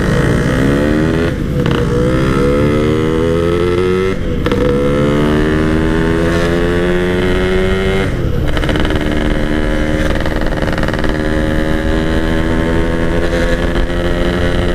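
Yamaha RX-King 135cc two-stroke single with a Packing Power aftermarket exhaust, accelerating hard through the gears: the engine note rises, breaks for an upshift about a second and a half in, rises again, shifts near 4 and near 8 seconds, then holds a nearly steady high note while cruising.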